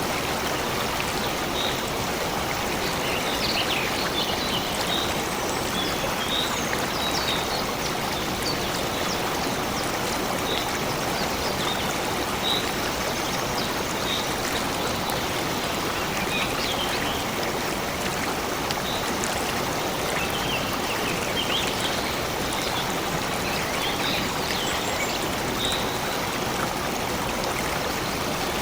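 Steady rushing of a flowing stream, with short, high bird chirps scattered over it.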